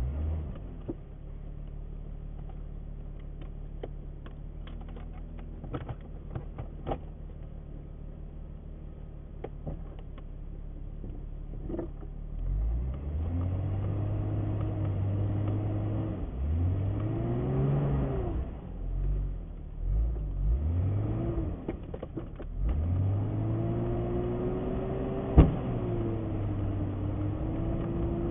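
Jeep engine idling with scattered light clicks, then revving up and dropping back several times as the stuck Jeep tries to drive out of a mud hole. A single sharp knock sounds near the end.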